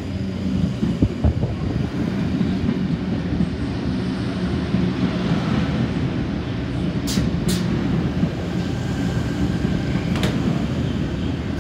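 Sydney Trains C-set double-deck electric train passing close by, a steady rumble from its wheels and running gear. A pair of sharp clicks come about seven seconds in, and another near ten seconds.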